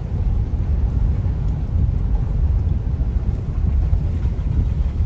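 Vehicle on the move: a steady low rumble with wind buffeting the microphone.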